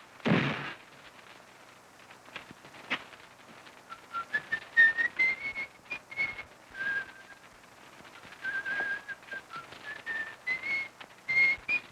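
A person whistling a tune, a wavering melody in short phrases starting about four seconds in, after a brief loud thud at the very start.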